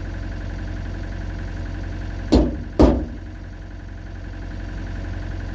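Two hard hammer whacks on the pickup's sheet-metal body, about half a second apart, struck to help a chain pull work out a dent. A steady idling engine runs underneath.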